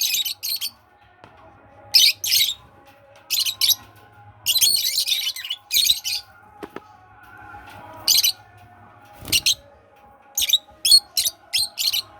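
Pet lovebirds giving short, harsh, high-pitched chirps and screeches in repeated bursts, some in quick runs near the end. A single dull thump about nine seconds in.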